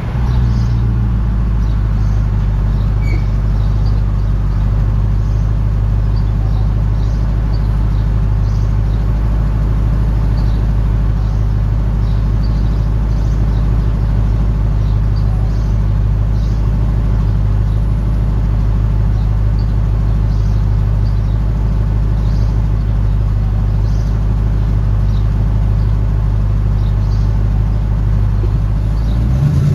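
2001 Audi S8's V8 running with a deep, loud, steady drone, unmuffled because the exhaust has separated between the catalytic converters and the mufflers. The pitch shifts briefly near the end.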